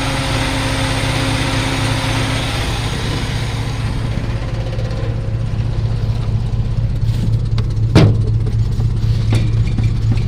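Old truck engine idling steadily, newly revived and fed by a hot-wired electric fuel pump. A high hiss fades out over the first few seconds, and there is one sharp knock about eight seconds in.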